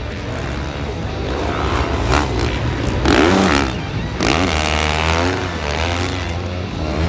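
Racing engines of snocross machines revving, with pitch rising and falling as several pass one after another.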